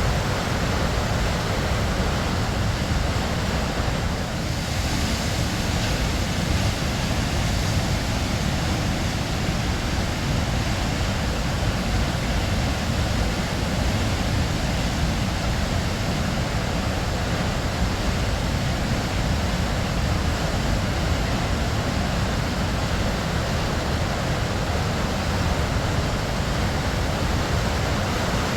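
Waterfall: a steady rush of falling water, deep and even, with no break or change.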